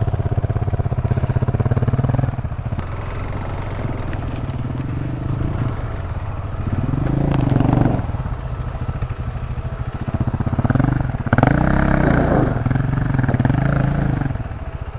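Motorcycle engine working over rough ground, pulling steadily, then revved up and back down about seven seconds in and blipped several times from about eleven seconds on.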